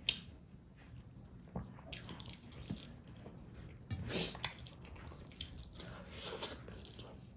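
Close-miked wet eating sounds: chewing and lip smacks in an irregular run of small clicks, with a few louder bursts spread through.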